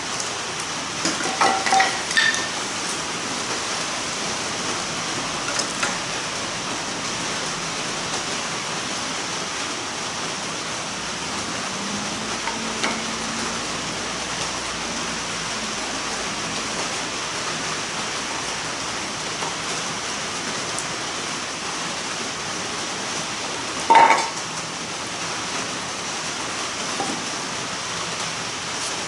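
Steady rain falling, with a few light metal clinks about a second in and a sharper one near the end.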